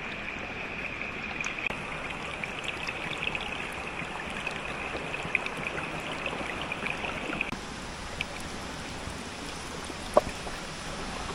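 Underground cave stream running steadily. A higher hiss in the water sound drops away about seven and a half seconds in, and there is one sharp knock near the end.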